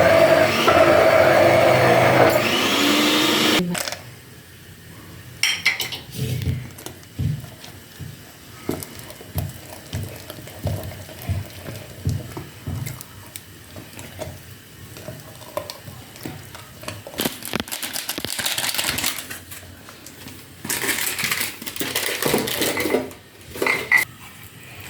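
Countertop blender running steadily while blending sweet potato brownie batter, switched off abruptly about four seconds in. Then irregular knocks and scrapes of kitchen utensils and dishes.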